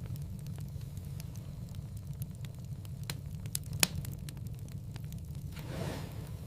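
Wood fire crackling in a fireplace: scattered sharp pops, the loudest a little under four seconds in, over a steady low rumble, with a soft whoosh near the end.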